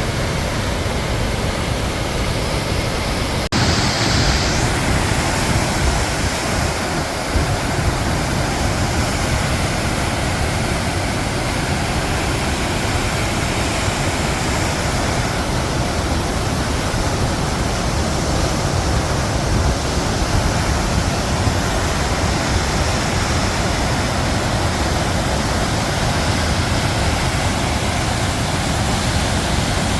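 Steady, loud rush of the Krimml Waterfalls, heavy falling water, with a single click about three and a half seconds in.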